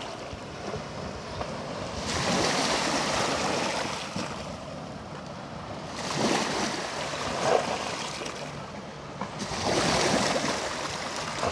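Small Black Sea waves washing onto a sandy, stony shore, swelling three times about every four seconds, with some wind on the microphone.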